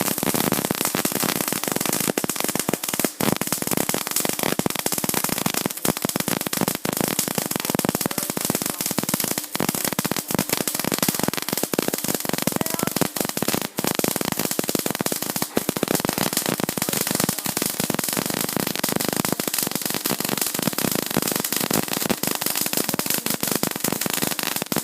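Electric welding arc crackling and sputtering steadily while a weld bead is run, a dense, loud crackle of fine pops.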